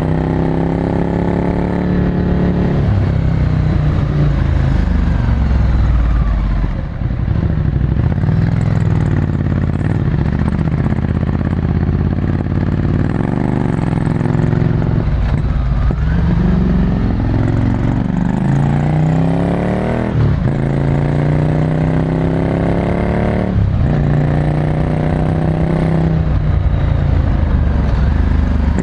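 Ducati Scrambler Desert Sled's air-cooled L-twin engine through a full Termignoni exhaust, heard onboard while riding: the revs climb and fall repeatedly, with a few sudden drops in pitch at gear changes.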